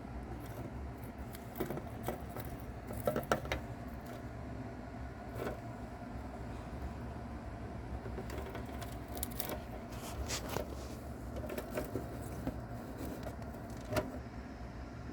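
Mouse tearing and crunching at a cicada: scattered small crackles and clicks, sharpest about three seconds in and near the end, over a steady low hum.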